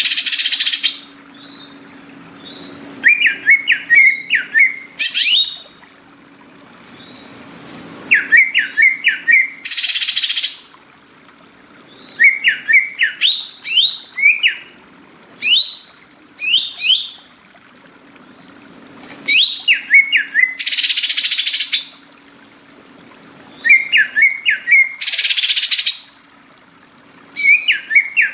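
Green leafbird (cucak ijo) singing in full song: repeated phrases of quick rising whistled notes, each closed by a harsh, rasping burst, coming about every four to five seconds. A faint steady low hum runs underneath.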